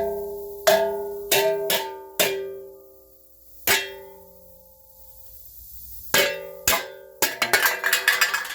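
Hammer blows on metal, each leaving a ringing tone that fades over about a second, as the rear hub assembly of a 2010 Toyota Prius is knocked loose. Single strikes come every half second or so, then there is a gap, then a rapid flurry of blows near the end.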